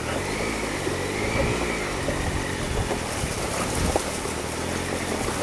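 Triumph Explorer 1215cc three-cylinder motorcycle engine running at low speed, its pitch rising and falling gently as the bike is ridden along a wet, muddy track. A few short knocks come about four seconds in.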